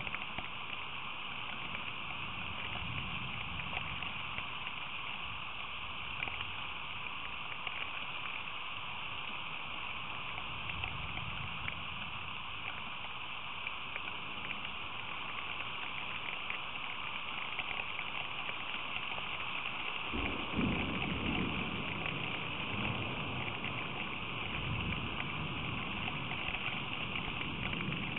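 Steady rain pouring down, an even hiss with no let-up. About two-thirds of the way through, a low rumble swells up for a couple of seconds.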